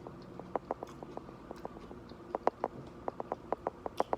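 Close-up chewing of a mouthful of nachos on corn tortilla chips: quick, rhythmic crunches, about five or six a second, in two runs with a brief pause midway.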